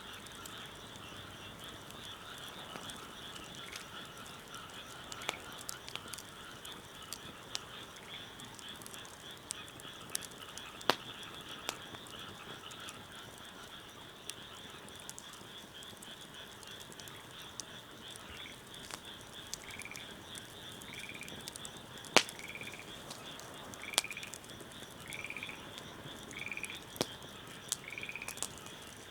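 A chorus of frogs calling steadily, with one frog giving a short repeated call about once a second in the last third. Now and then a wood fire pops sharply.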